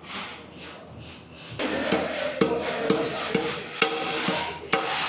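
Hand hammer striking an M8 metal anchor into a drilled hole in concrete: about seven ringing blows roughly two a second, starting about two seconds in.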